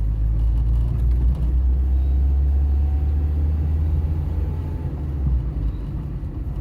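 A car driving, a steady low rumble of engine and road noise heard from inside the cabin.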